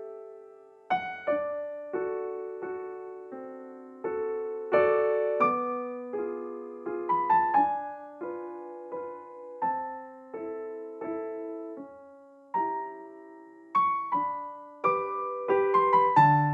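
Gentle solo piano music: slow struck notes and chords, each ringing and fading before the next.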